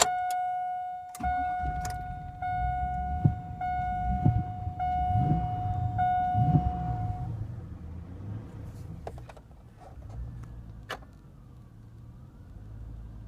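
Chevrolet Silverado dashboard warning chime: a click, then six clear electronic tones about a second apart. Under them a low rumble of the truck running, which fades after the chimes stop, with a few clicks later on.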